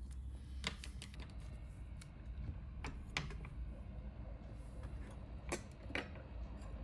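Scattered light clicks and taps of small hard parts being handled, about seven in all, over a steady low hum.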